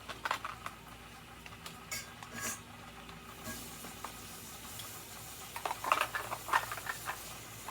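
Small plastic toy kitchen pieces being handled, giving scattered light clicks and taps, with a busier run of clacks near the end.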